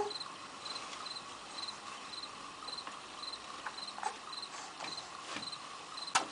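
Cricket chirping steadily, about two short chirps a second, with a few faint clicks.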